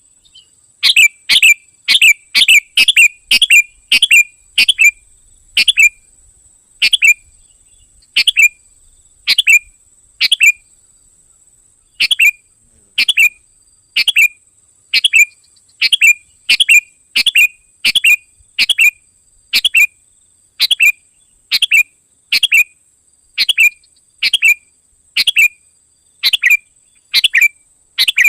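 Sooty-headed bulbul (kutilang) calls from a lure recording used for bird trapping: short, loud, clear calls repeated about once a second, with a pause of a second or two near the middle.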